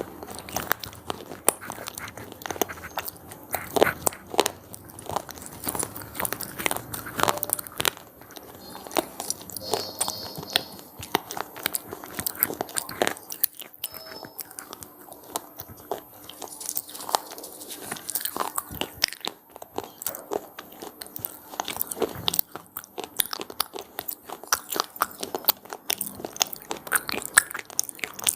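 Someone biting and chewing crunchy pizza-flavoured corn snacks close to the microphone: a steady run of irregular sharp crunches and crackles.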